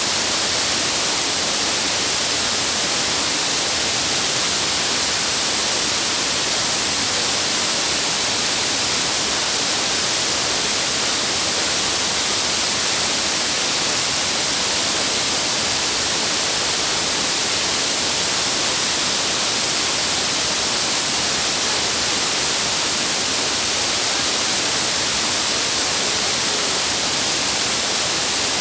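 Waterfall: water pouring and splashing in a steady, even rush of hiss.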